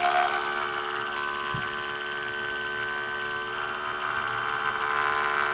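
Fanttik Cafein 11 portable electric espresso machine running its pump, a steady electric buzzing hum that grows a little louder near the end, as it pushes the freshly heated water through the coffee at the start of a brew.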